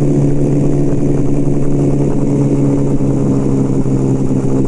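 1975 Kawasaki KZ400 motorcycle's parallel-twin engine running at a steady speed.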